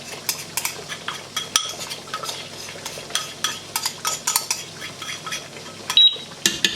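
Spoon clinking and scraping against a cooking pot, with many short knocks as almond paste goes into the chicken curry and is stirred in. The loudest clink comes about six seconds in.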